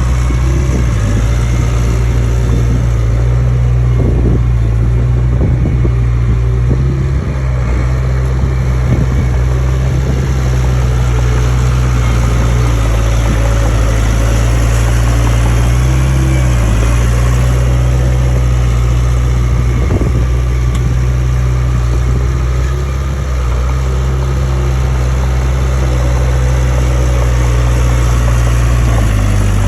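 Heavy diesel engine of a Komatsu D31A crawler bulldozer running steadily under load. Its pitch dips briefly twice, about halfway through and again a few seconds later, and there are a few faint knocks.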